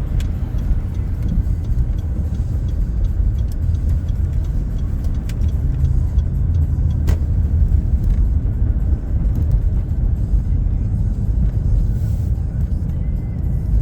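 Car road and engine noise heard inside the cabin while driving: a steady low rumble with a few faint clicks.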